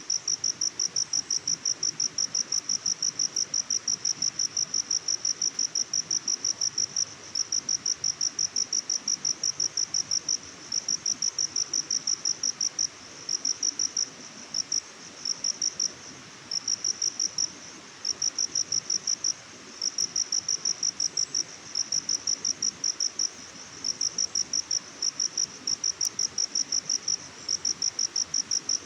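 A cricket chirping: one high note pulsed rapidly several times a second, continuous at first, then in runs broken by short pauses from about ten seconds in.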